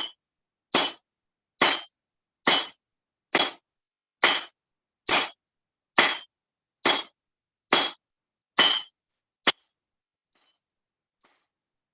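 Hammer blows on hot steel at the anvil, forging the striking end of the tool: about a dozen evenly spaced strikes a little more than one a second, each with a short metallic ring. The last blow is shorter, and the hammering stops about nine and a half seconds in.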